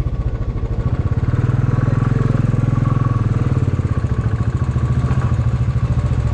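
Motorcycle engine running as the bike rides along, growing louder about a second and a half in and easing off again after about four seconds.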